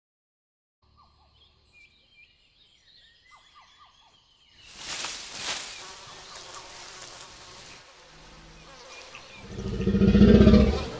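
Film Tyrannosaurus rex sound effect: faint jungle chirps, then a loud breathy rush about four and a half seconds in that settles into a steady hiss, and a low growl swelling up near the end before it cuts off.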